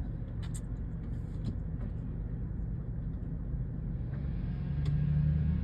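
Low, steady rumble of a motor vehicle's engine running, growing louder about four and a half seconds in.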